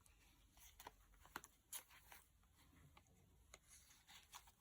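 Near silence with faint, scattered rustles and light ticks of paper pages and cards being handled in a small handmade journal.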